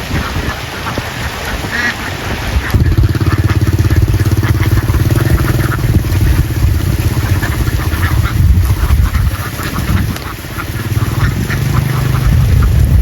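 A flock of ducks quacking. About three seconds in, a vehicle engine comes in with a loud, steady low hum and runs under the quacks, dipping briefly near the end before picking up again.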